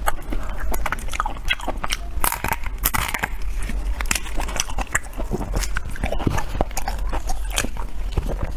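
Close-miked eating: biting and chewing with many irregular sharp, crunchy clicks.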